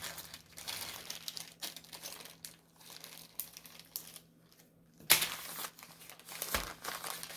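Plastic packaging crinkling and rustling as it is handled, in irregular bursts with a brief lull before the midpoint, and a low thump toward the end.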